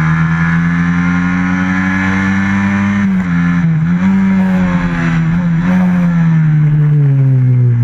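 Stock FXR150 racing motorcycle engine at high revs, heard on board, with wind noise. Its pitch holds high, dips briefly about three seconds in and twice more around five seconds, then falls steadily near the end as the bike slows.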